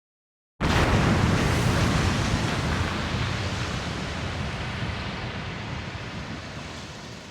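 Dramatic TV-serial impact sound effect: a sudden loud hit about half a second in that swells into a rushing, rumbling wash of noise and fades slowly over several seconds.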